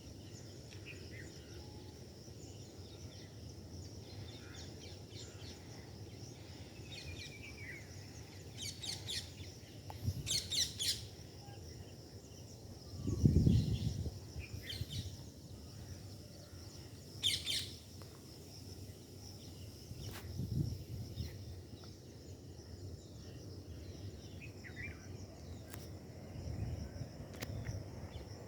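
Birds chirping in short, scattered calls over a steady high-pitched hum, with one brief low rumble about halfway through.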